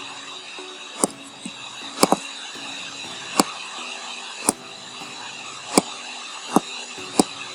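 Loud, sharp clicks of a computer mouse, picked up by the recording microphone, about one a second and irregular, sometimes two in quick succession, over a steady background hiss.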